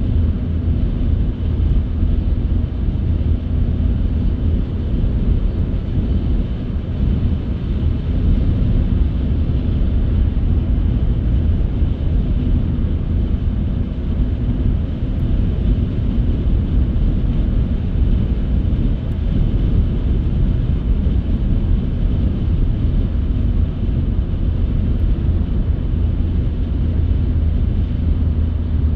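Car driving at a steady pace: a constant low rumble of engine and tyres on the road, with no change in pitch or level.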